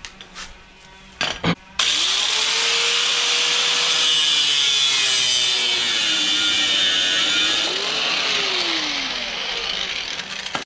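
A power tool running under load for about nine seconds, its motor pitch sagging and recovering as it works, after a couple of short clicks.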